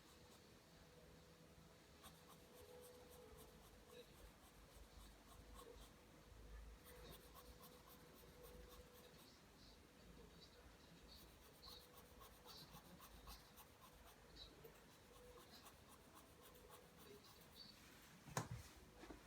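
Faint pencil strokes scratching across paper as lines are drawn one after another, with a single sharp knock near the end.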